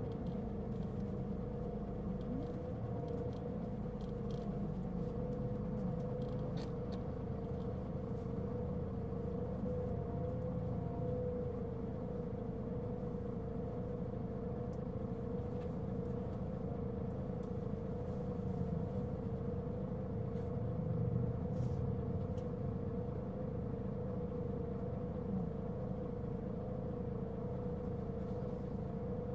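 Interior running sound of a Mitsubishi Fuso Aerostar diesel city bus (LKG-MP37FK): a low engine rumble with a steady whining tone held at one pitch over it. The uploader says this bus was giving off a considerable abnormal noise.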